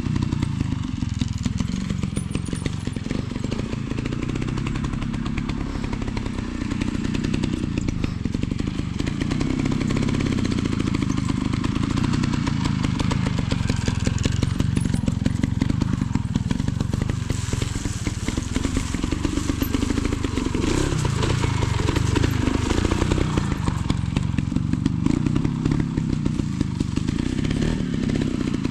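Beta 200 two-stroke trials motorcycle running at low speed, its revs rising and falling as the throttle is worked, getting louder and busier for several seconds past the middle.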